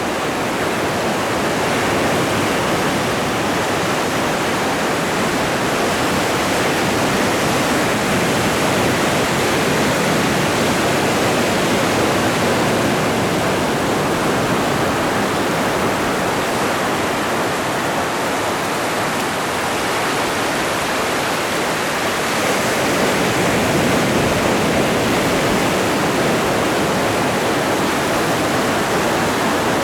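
Atlantic Ocean surf: a steady rush of breaking water that swells and eases slightly in loudness.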